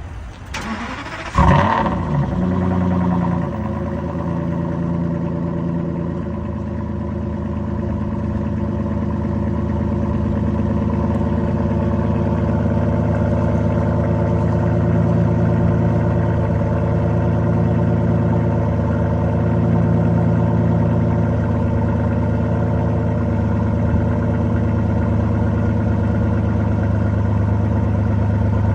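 Aston Martin V12 Vantage S's V12 engine on a cold start: the starter cranks briefly, the engine catches about a second and a half in with a loud flare, then settles into a steady idle.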